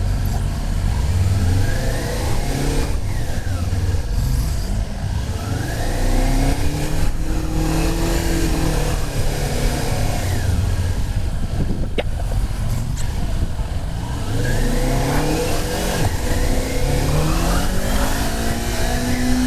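Motorcycle engine pulling through the gears during low-speed practice laps, its pitch rising under throttle and dropping at the shifts several times, over a steady low rumble.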